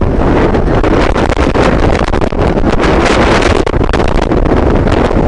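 Loud, steady wind buffeting the microphone of a moving truck, a heavy low rumble with frequent crackles and pops.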